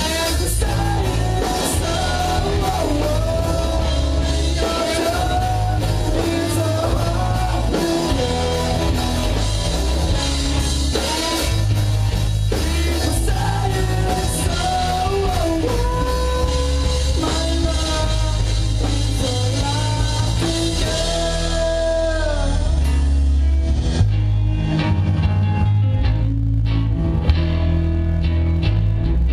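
A live rock band playing: a singer over electric guitar, bass and drums. The singing stops about three-quarters of the way through while the band plays on.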